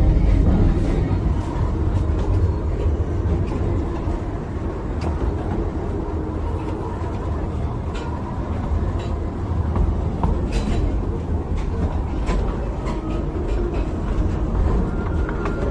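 Miniature tourist train running along its track: a steady low rumble with scattered sharp clicks.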